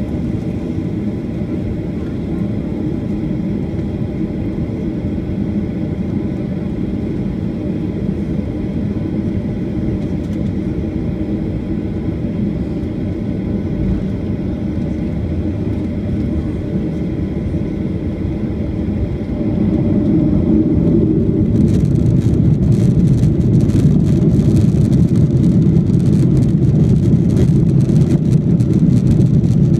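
Steady low rumble that grows louder about two-thirds of the way through, with a hiss joining shortly after.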